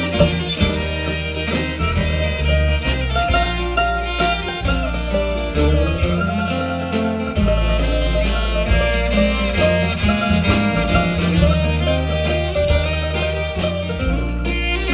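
Country band playing an instrumental break with no singing: fiddle over guitar and a low bass line, with a steady beat.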